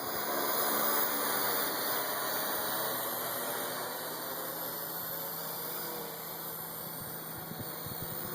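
Parrot AR Drone 2.0 quadcopter's electric rotors running in flight, a steady whirring hum that slowly fades.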